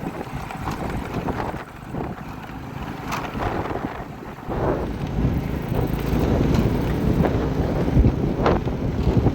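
Wind buffeting the microphone, a low irregular rumble that grows louder about halfway through, with a few faint knocks.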